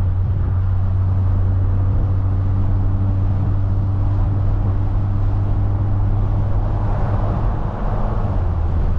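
The straight-piped, big-turbo BMW 340i's turbocharged straight-six, heard as a steady low exhaust drone inside the cabin while cruising without a pull. The loudness dips briefly about three-quarters of the way through.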